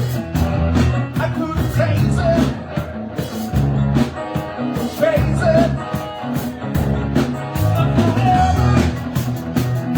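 Live band playing a rock-and-roll number: a steady drum beat and bass under a wavering melodic lead line.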